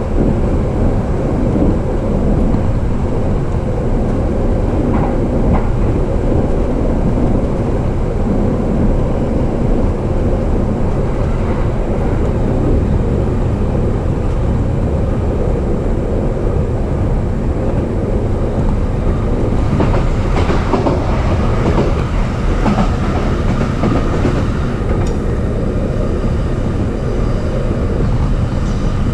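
JR East E233 series electric commuter train running at speed, heard from inside the car: a steady low rumble of wheels on rails, with a stretch of clatter about two-thirds of the way through.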